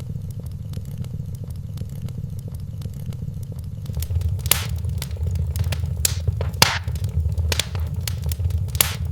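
Wood fire in a fireplace crackling over a steady low rumble, with thin clicks throughout and several louder sharp pops in the second half.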